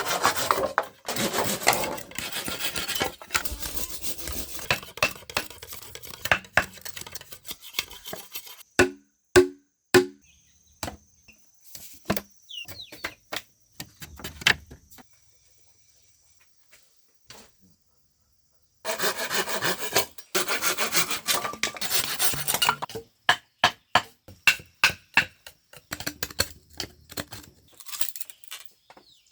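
Bamboo being worked with hand tools: two long stretches of rasping, sawing-like strokes, with sharp separate knocks between and after them.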